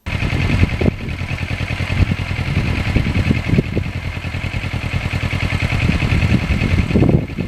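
Kawasaki Ninja 650R's parallel-twin engine running steadily as the bike is ridden along the road, with wind and road noise.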